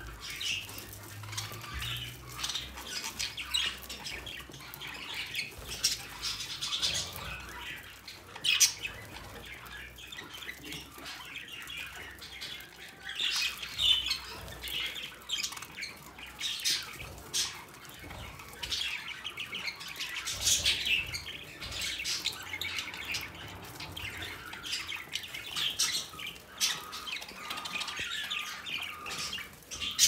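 Pet birds chirping and squawking at feeding time, short calls following one another closely throughout, with an occasional sharp click.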